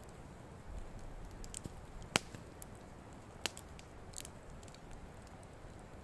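Wood campfire crackling, with a few scattered pops; the two sharpest snap about two and three and a half seconds in, over a faint low rustle of the burning fire.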